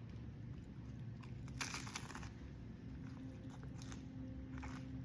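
A person biting and chewing a crunchy taco shell close to the microphone, with a few separate crunches, the loudest about two seconds in.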